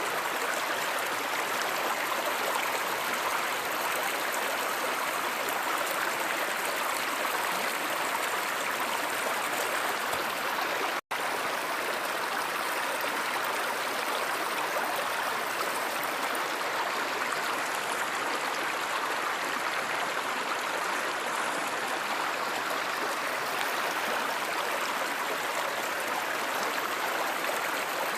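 Flowing stream or river water, a steady even rushing that cuts out to silence for an instant about eleven seconds in.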